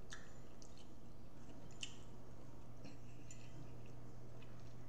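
Close-miked wet chewing of shrimp and sausage, with a few soft mouth clicks and smacks scattered through, the clearest about two seconds in. A steady low hum runs underneath.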